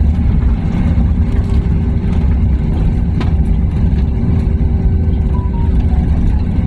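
Airliner cabin noise as the plane rolls on the ground after landing: a loud, steady low rumble of engines and wheels, with a single click about three seconds in.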